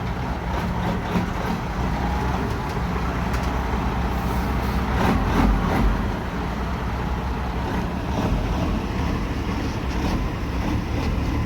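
Caterpillar 3406 diesel engine of a dump truck running steadily, with a short rise in level about five seconds in.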